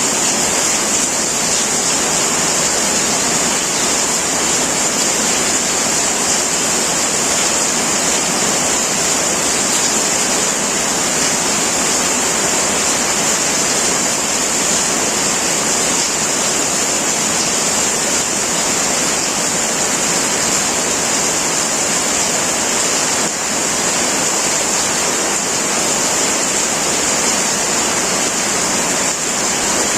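Heavy rain pouring steadily onto a metal tin roof, a dense, even hiss of countless drops with a bright, sharp edge.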